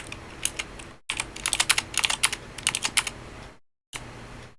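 Typing on a computer keyboard: irregular runs of quick keystroke clicks, densest in the middle, with the audio cutting out briefly about a second in and again near the end.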